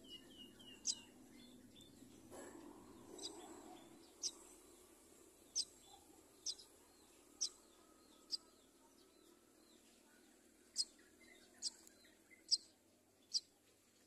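Myna nestlings chirping in the nest: about ten short, sharp, high chirps at irregular intervals, with a quick little run of notes near the start, over a faint steady background hum.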